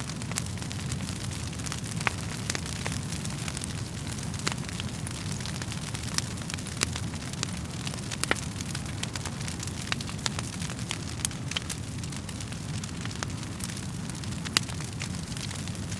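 Wood fire burning in a fireplace: frequent irregular crackles and pops over a steady low rush of flame, with one louder pop near the end.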